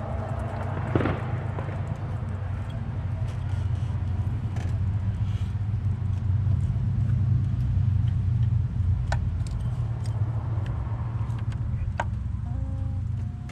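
Car engine running with a steady low rumble, with a couple of sharp clicks near the end.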